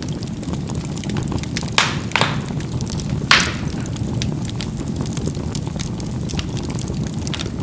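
Charcoal burning in a fireplace: a steady low rush of fire with many small crackles, and three louder pops of the coals bursting, two close together about two seconds in and one more about a second later.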